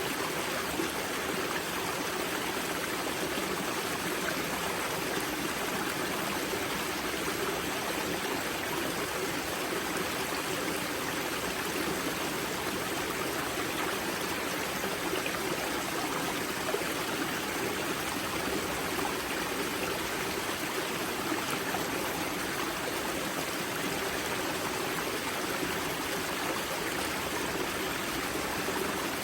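Spring-fed river water rushing and splashing steadily over rocks at the Grza river's source, a continuous even stream sound.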